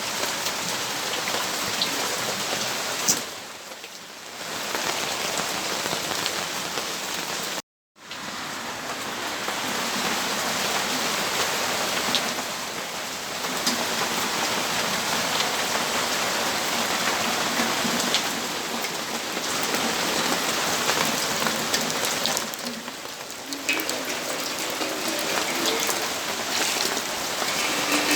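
Steady rainfall, a dense even hiss with individual drops pattering on surfaces. The sound cuts out completely for a moment a little under a third of the way in, then resumes.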